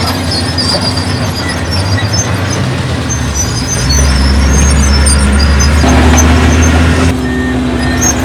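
Heavy diesel earthmoving machinery running: a big engine working steadily, pulling harder and louder for a few seconds in the middle before easing back.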